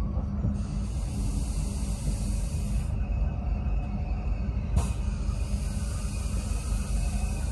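Steady low rumble of an SNCF train heard from inside the carriage as it runs. A hiss comes in for about two and a half seconds, stops, then returns just after a single sharp click near the middle.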